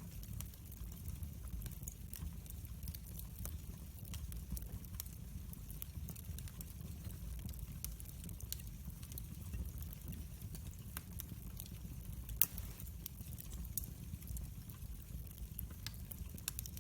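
Fire burning in a fireplace, crackling with frequent small snaps over a steady low rumble; one louder snap about twelve seconds in.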